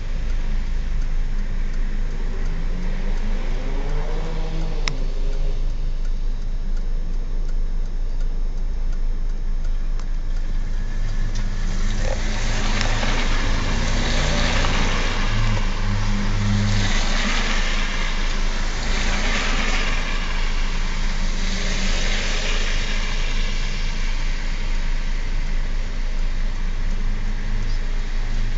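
Car engines running in flooded streets, with a rushing hiss of tyres through water that grows louder about halfway through and swells several times.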